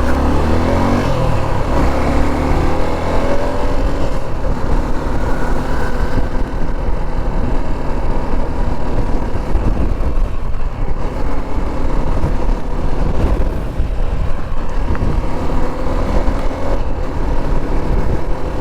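Motorcycle riding on the road, with its engine note and heavy wind rush on the microphone. The engine note rises over the first couple of seconds as it accelerates, then holds steady.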